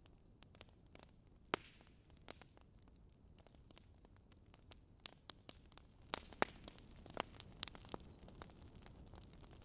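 Wood fire crackling in a fireplace: irregular sharp snaps and pops over a faint low hiss, growing busier about six seconds in.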